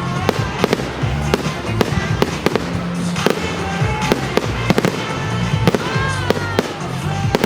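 Firework display going off: a rapid run of sharp bangs and crackles, several a second, over pop music with a steady bass.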